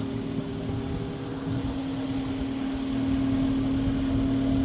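Engine of a lifting machine running steadily with a constant hum, slightly louder about three seconds in.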